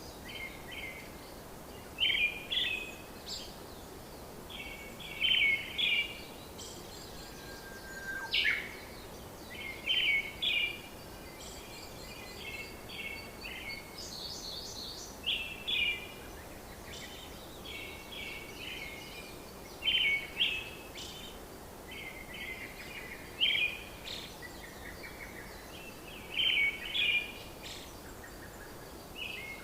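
Birds singing: short bursts of chirps recurring every two to three seconds over a steady background hiss.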